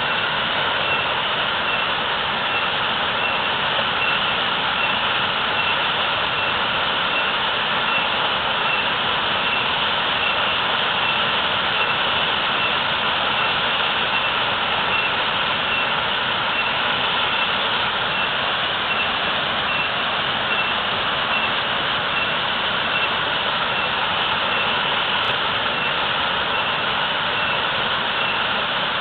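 Waterfall: water pouring down heavily in a steady, unbroken rush.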